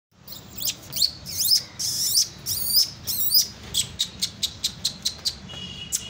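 Small birds chirping: first several high, swooping calls, then a quick run of short, sharp chirps, about three a second.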